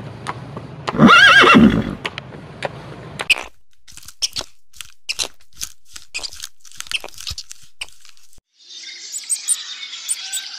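A horse whinnies once, loudly, about a second in. Irregular clicks and knocks follow for several seconds. Near the end a steady hissing background begins.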